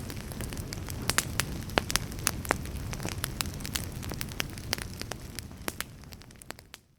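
Burning logs in a fireplace crackling, with frequent sharp pops over a low rumble of flames. The sound fades out to silence near the end.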